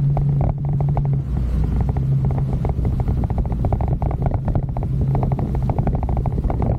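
Motorcycle engine running steadily under way, its low hum dropping slightly in pitch about a second in.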